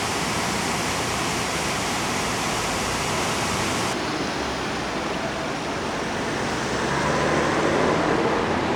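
Swollen River Exe in flood: a steady, loud rush of fast-flowing water. The sound turns a little duller about four seconds in and swells slightly near the end.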